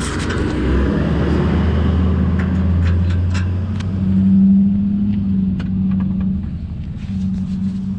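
A bus driving past, its engine rumbling low and steady, loudest about four to five seconds in. Scattered light clicks sound over it.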